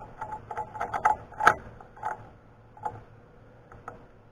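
Irregular metallic clinks and knocks of steel tools and parts being handled and set down in a machine shop, loudest about a second and a half in and thinning out after, over a faint steady hum.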